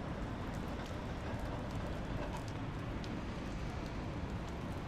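Wet-street ambience in steady rain: an even wash of rain and background street noise, with scattered light ticks of raindrops and footsteps on wet pavement.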